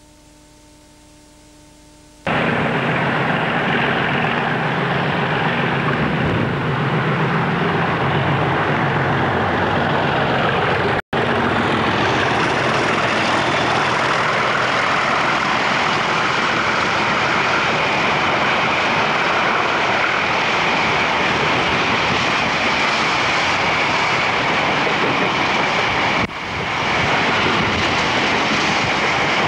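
A pair of Class 37 diesel locomotives hauling a freight train of open wagons past at speed, their engines loud and steady, then the continuous rumble of the wagons going by. The sound starts abruptly about two seconds in and cuts out for an instant near the middle.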